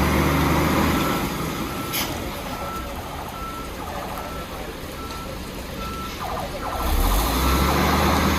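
Truck reversing alarm beeping steadily, about one and a half beeps a second, over the low rumble of a heavy truck engine, which is loudest at the start and again near the end.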